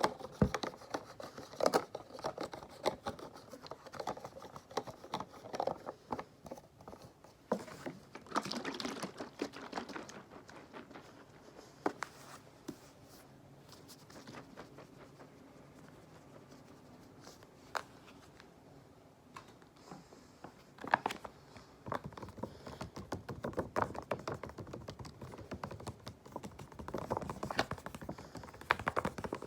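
Close-miked tapping, scratching and crinkling on cleaning supplies such as sponges. Dense clicks and rustling at first, a quieter stretch with only a few single clicks midway, then busy tapping and rustling again.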